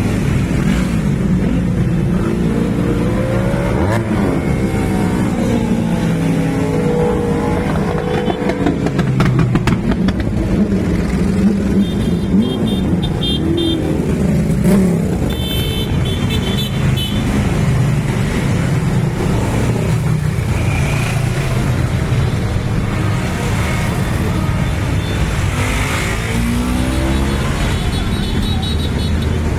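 Motorcycle engines running and revving, their pitch repeatedly rising and falling.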